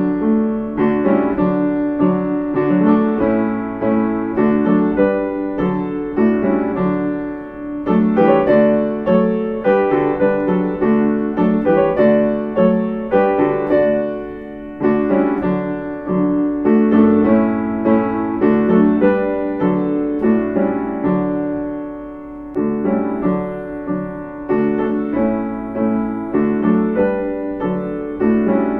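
Background piano music: a steady stream of piano notes with a calm, even pulse.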